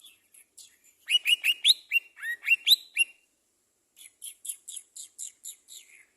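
A small songbird singing: a quick run of sharp chirps with upward flicks, then after a short pause a faster series of high, evenly spaced notes.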